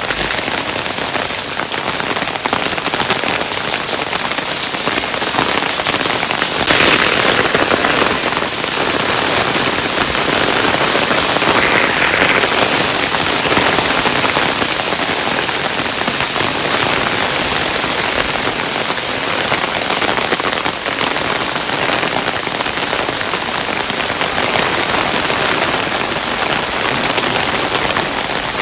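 Hailstones falling steadily, a dense hiss of countless small impacts pattering on a surface, swelling slightly louder twice.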